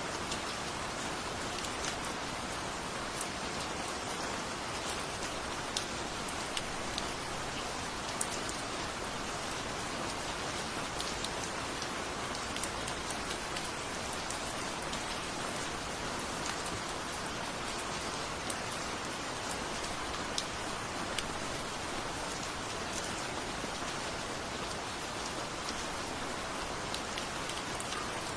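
Steady rain falling, a constant hiss with individual drops ticking sharply on a surface here and there.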